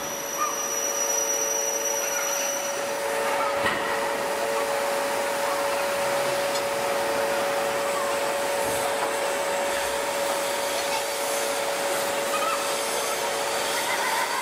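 Large hydraulic forging press running while its dome-shaped die presses a red-hot steel plate: a steady hiss with an even two-note hum underneath.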